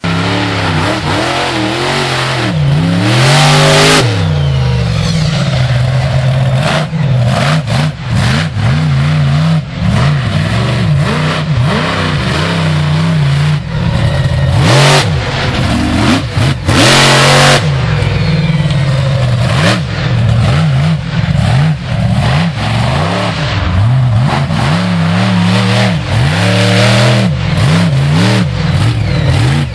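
Monster truck engine revving hard again and again, its pitch climbing and falling with the throttle, with a few brief loud rushes of noise along the way.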